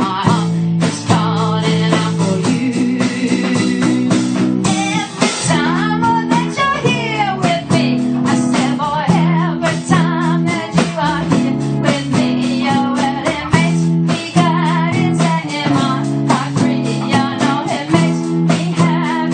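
Live band playing a blues-rock tune with guitars over a steady bass line. A lead guitar line bends and wavers in pitch, most plainly about six to eight seconds in. The whole mix is heard through a phone's microphone.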